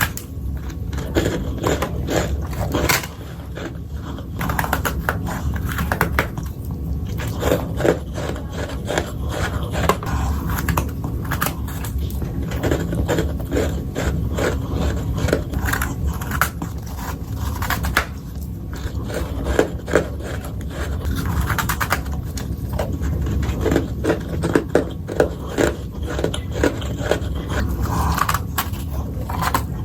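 Close-miked bites and chewing of powdery freezer frost, a soft crunching and scraping that goes on without a break, dense with small irregular crackles.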